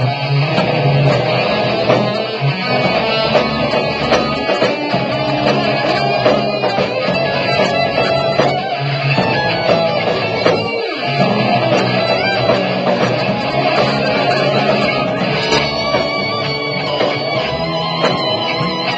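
Live rock band playing an instrumental passage with no vocals, electric guitar to the fore.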